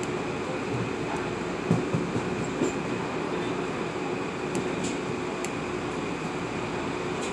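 Inside a moving Metro-North M8 electric multiple-unit railcar: a steady rumble of wheels running on the rails with a faint steady whine, and a few short thumps about two seconds in.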